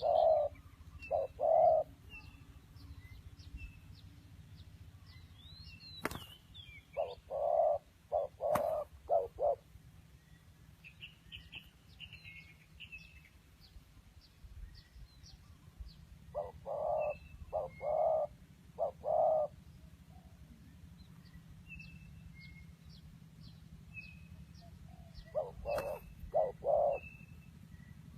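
Birds calling: a low hooting call in phrases of three or four notes, repeated several times with long gaps, over faint high chirps from smaller birds. A few sharp clicks come through, one about six seconds in, another a couple of seconds later, and one near the end.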